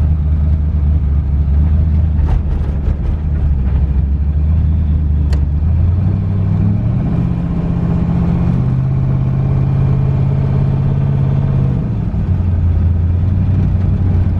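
Twin-turbo LS V8 in a Fox-body Mustang, running without mufflers while cruising on the street, heard from inside the car. Its low exhaust drone rises in pitch about six seconds in, holds, then drops back near twelve seconds.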